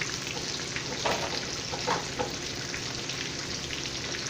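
Fish frying in hot oil in a pan: a steady sizzle with a few louder pops and crackles about one and two seconds in.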